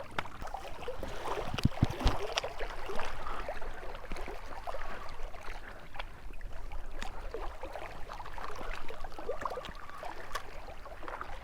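Small waves lapping and splashing irregularly at the lake's edge, with a steady low rumble of wind on the microphone and a couple of low thumps about two seconds in.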